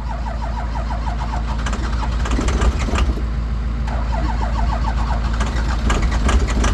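Ford 6.0 Powerstroke V8 turbo-diesel cranking on the starter in a hard cold start, turning over in a steady rhythmic chug without catching.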